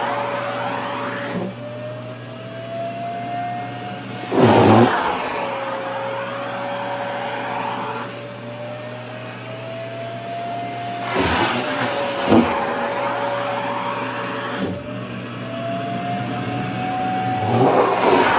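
Vacuum cleaner motor running, its hum slowly rising in pitch and then dropping back, with loud rushing bursts about three times as skirt fabric is sucked against the nozzle.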